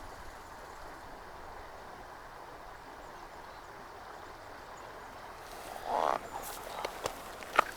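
Steady rush of a mountain stream. About six seconds in there is a brief rustle, then a few sharp clicks and knocks: footsteps over streamside rocks and brush.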